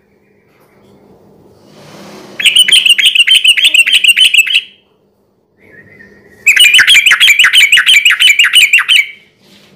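Yellow-vented bulbul (trucukan) singing loud 'ropel' phrases. Two bursts of quickly repeated, sharp chirping notes about four to five a second, each lasting two to three seconds, separated by short pauses.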